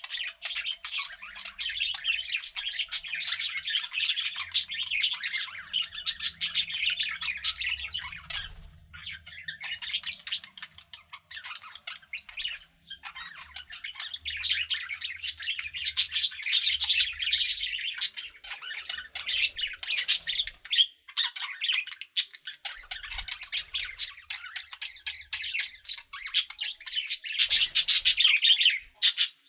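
Pet budgerigars chattering, a dense run of rapid chirps, warbles and squawks with brief lulls, loudest near the end.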